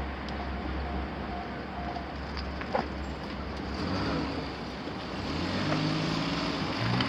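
Road traffic with a vehicle engine running, its pitch rising over the last couple of seconds as it speeds up. A single sharp click about three seconds in.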